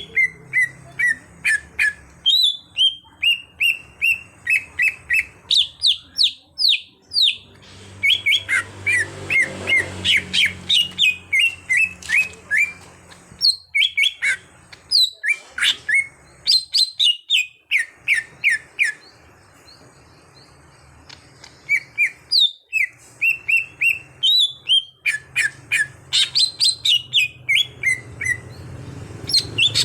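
Cucak hijau (greater green leafbird) singing fast runs of short, sharp, falling whistled notes, several a second, in long phrases with a lull of a few seconds about two-thirds of the way through.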